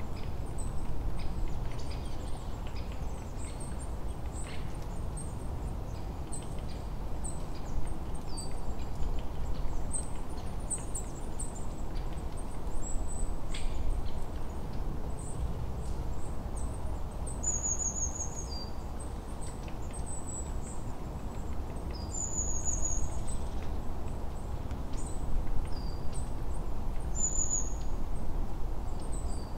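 Small birds chirping with short high calls, joined in the second half by a brighter falling chirp about every five seconds, over a steady low rumble.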